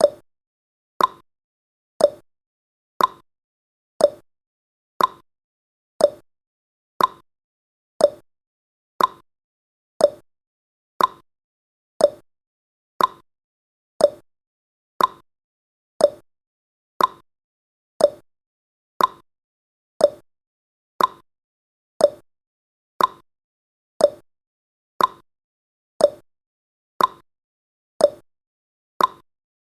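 Countdown timer ticking sound effect: a short, sharp clock-like tick once every second, evenly spaced.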